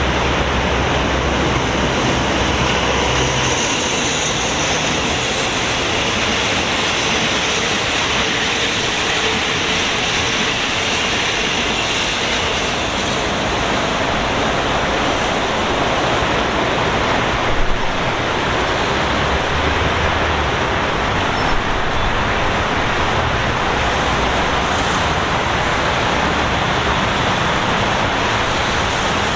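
Diesel locomotive-hauled commuter train passing: a low engine drone for the first few seconds, then a steady, even rushing noise.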